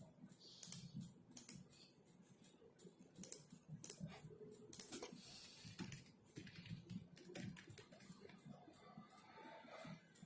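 Typing on a computer keyboard: soft, irregular keystrokes in quick runs, with a brief rustle about five seconds in.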